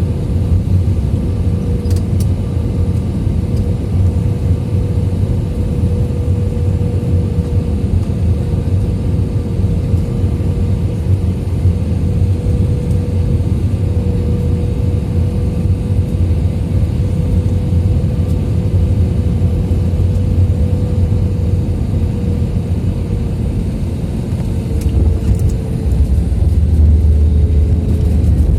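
Airbus A320 cabin noise from a seat over the wing during landing: a steady drone of engines and airflow with a held mid-pitched tone. Near the end the low rumble gets louder and the tone drops a little.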